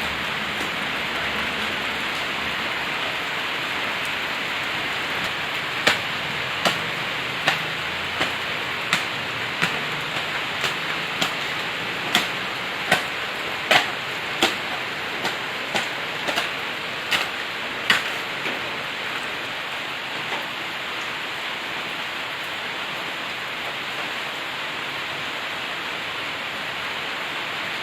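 Steady rain falling. From about six seconds in to about eighteen seconds in, a run of sharp, evenly spaced taps comes through, about one every three-quarters of a second.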